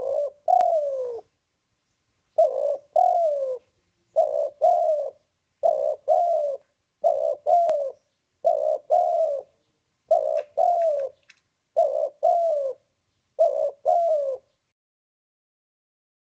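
Spotted dove (tekukur) cooing: a paired coo, the second note longer and falling away, repeated about every one and a half seconds, ten times, then it stops near the end.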